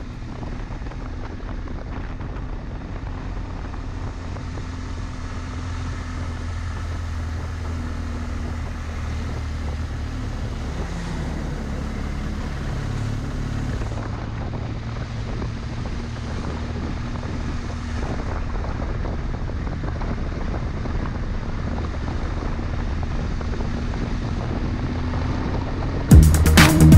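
BMW R1200GS Adventure's boxer-twin engine running steadily under way, with wind rush on the microphone.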